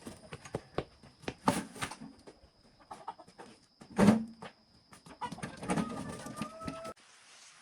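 Irregular knocks and clicks, the loudest a heavy thud about four seconds in, with a short pitched call near the end.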